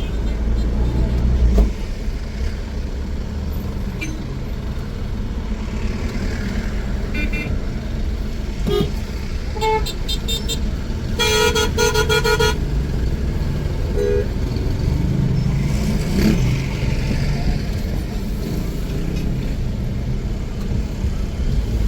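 City street traffic with a steady low engine rumble and car horns: a few short toots, then a longer honk of about a second roughly halfway through, and another short toot soon after.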